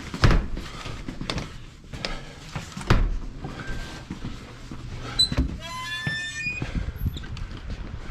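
Two heavy thumps about three seconds apart with scattered light knocks between them, and a brief high, stepped squeak about two thirds of the way through.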